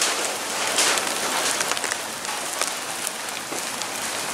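Steady heavy rain falling on the yard, an even hiss with scattered sharp drop hits.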